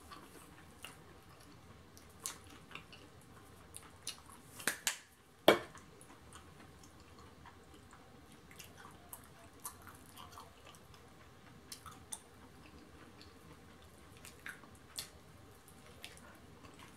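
Chewing and mouth smacks while eating corn on the cob, with scattered soft clicks. Two sharper knocks come about five seconds in.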